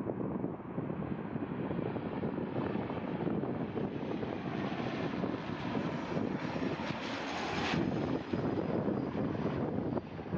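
Fixed-wing aircraft flying over, its engine rumble building to a peak about three-quarters of the way through and then easing off, with wind buffeting the microphone.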